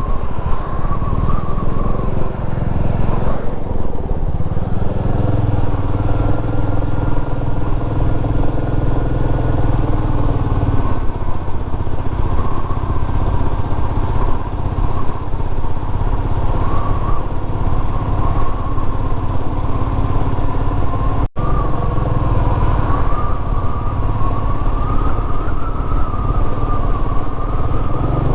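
Royal Enfield Meteor 350's single-cylinder engine running under way as the motorcycle is ridden, its pitch shifting a few times with throttle and speed. A split-second gap in the sound about three-quarters of the way through.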